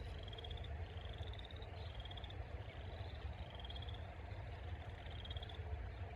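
Pond frogs calling: short, slightly rising pulsed trills, repeated over and over, with a low steady rumble underneath.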